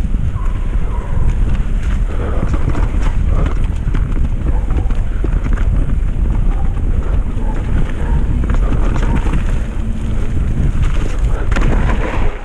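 Mountain bike riding fast down a wet, muddy trail: wind buffeting the microphone over the tyres rumbling on the ground, with steady clattering and rattling from the bike over bumps. The noise drops away at the very end as the bike slows.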